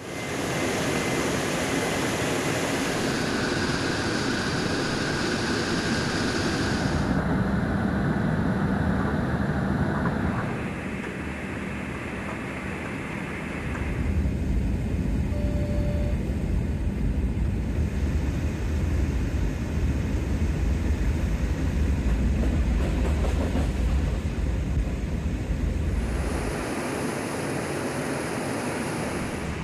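Steady noise of a C-17 Globemaster III's turbofan engines and rushing airflow. The sound changes abruptly every few seconds, and for the middle stretch a deep rumble is loudest.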